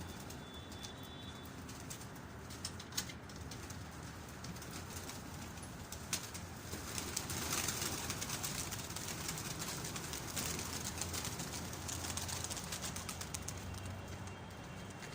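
A loft full of domestic pigeons cooing, with scattered wing flaps and clicks. The flapping grows busier and louder in the middle.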